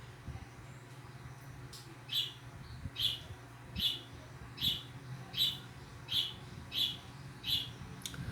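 A bird chirping the same short call over and over, a little more than once a second, starting about two seconds in, over a faint steady low hum.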